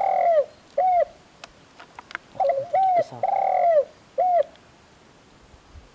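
Spotted dove cooing: two phrases of arching, repeated coos, the first at the start and the second from about two and a half to four and a half seconds in.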